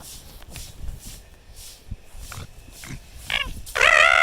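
An animal shrieking: a short squealing call about three seconds in, then a loud, wavering squeal lasting about half a second near the end.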